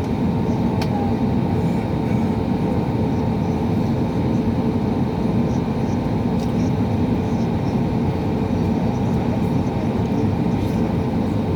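Steady rumble of an Airbus A320neo heard from inside the passenger cabin: engine and airflow noise, even in level throughout, with a faint steady whine above it.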